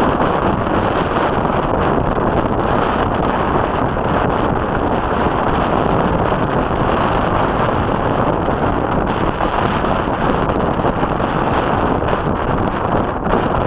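Strong wind rushing over the microphone: a steady, loud rumble with no clear engine tone through it.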